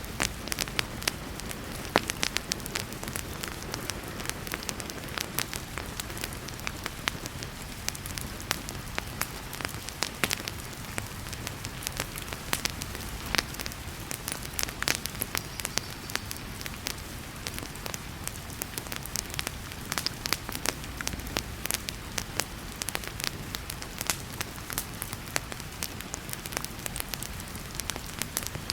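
Wood fire crackling with frequent sharp pops, over the steady hiss of heavy rain.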